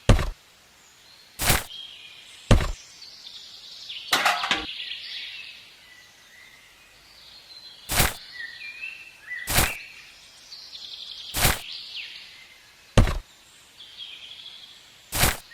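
About nine sharp, short knocks at irregular intervals, like hard objects being set down or tapped, with faint bird chirps behind them.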